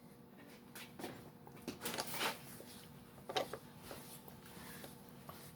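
A few light metal clinks and scrapes of a workpiece and parallels being handled and set in a milling-machine vise, over a faint steady hum.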